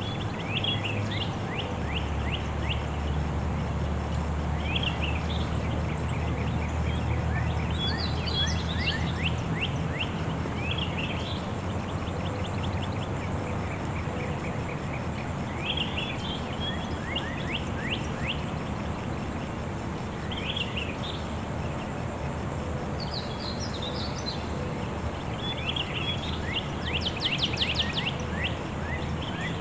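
Wild birds calling outdoors: short runs of quick, high chirps come every few seconds over a steady low rumble.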